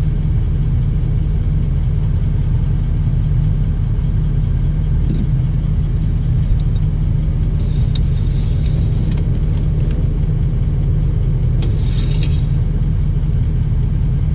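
Steady low rumble of an idling engine. Brief light rattles and clicks come about eight and twelve seconds in as the oil dipstick is handled, wiped and pushed back into its tube.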